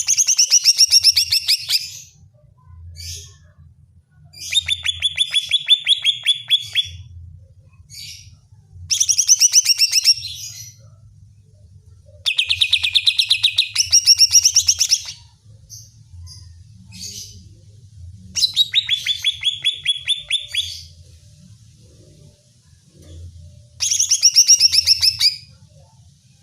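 Cucak ijo (green leafbird) singing in loud, rapid trilled phrases, each about two seconds long, repeated six times with short pauses between: an agitated challenge song used to provoke another cucak ijo.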